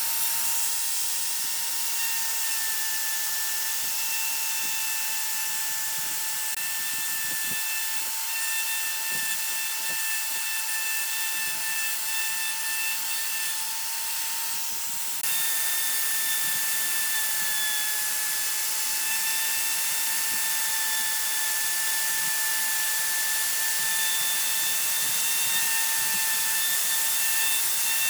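A power tool running steadily, a high motor whine over a strong hiss. The sound jumps slightly louder about halfway through.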